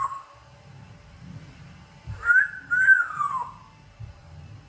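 African grey parrot whistling two notes about two seconds in: a short rising note, then a longer one gliding down, a wolf whistle.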